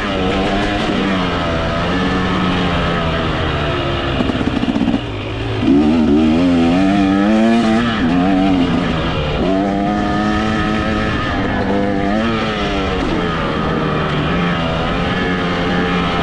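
Motocross dirt bike engine running under throttle as the bike is ridden, its revs rising and falling continually; about five seconds in the revs drop briefly, then climb sharply.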